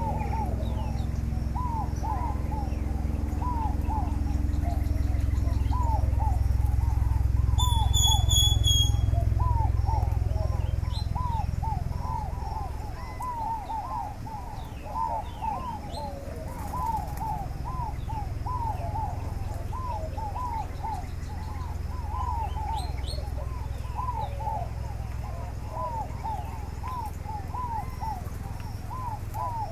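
Birds calling continuously, a steady run of short, quick, arching calls, over a low rumble that swells in the first half and eases off about halfway through.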